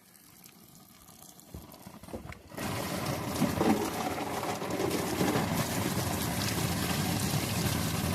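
Water pouring steadily out of a plastic water jug, starting about two and a half seconds in after a few light knocks, as a shot jug is emptied to find the bullet's core.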